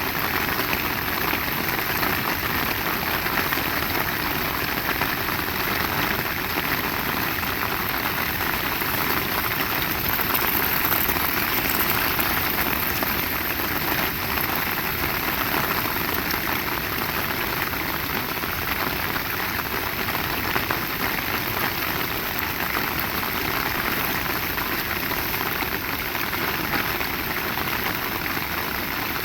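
Heavy rain pouring steadily, an even unbroken hiss of rain on surfaces.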